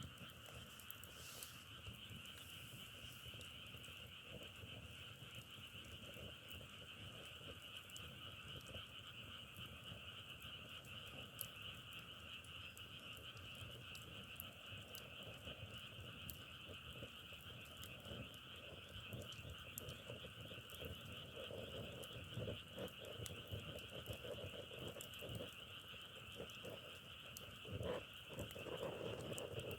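A continuous chorus of frogs calling, mixed with the scattered crackles and pops of burning firewood, which grow busier in the second half.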